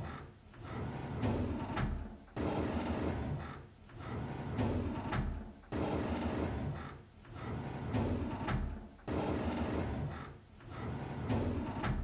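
A drawer sliding open on its runners with a rumbling scrape, the same sound repeating in a loop about every three and a half seconds, each pass starting abruptly.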